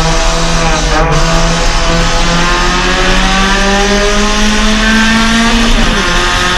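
Suzuki Swift Sport race car's 1.6-litre four-cylinder engine under full acceleration: the engine note dips briefly about a second in, then climbs steadily as the revs build, and drops sharply near the end at an upshift.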